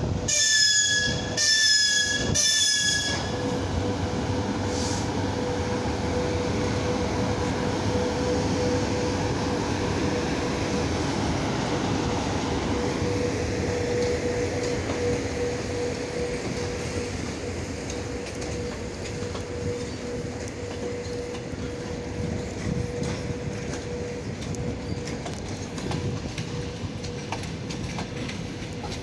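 VL80S electric locomotive's whistle sounding three short blasts in quick succession. The passenger coaches it hauls then roll past with a steady wheel squeal and rolling rail noise.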